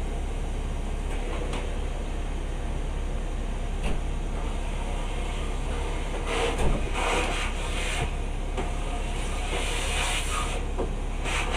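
Ambience of a passenger train standing at a station: a steady low hum with scattered clicks and knocks, and a few short hissing rushes of noise around the middle and near the end.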